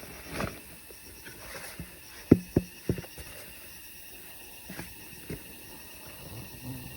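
Sharp knocks and clacks of rocks and prospecting gear being handled: three in quick succession about two seconds in, the first the loudest, and two softer ones a couple of seconds later, over a faint steady hiss.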